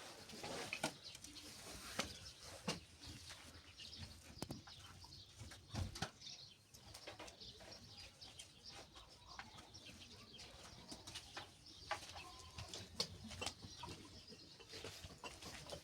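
Faint bird sounds: short chirps mixed with scattered sharp clicks and knocks.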